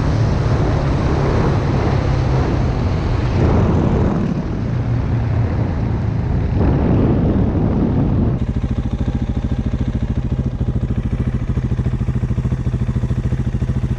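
Dirt bike engine running while riding, with wind noise on the microphone. About eight seconds in the wind noise stops abruptly and the engine carries on as a steady, even pulsing.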